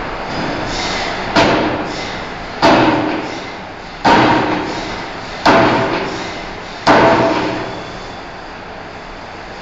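Heavy forging hammer striking a steel bar: five blows about a second and a half apart, each ringing and dying away, over a steady machinery hum.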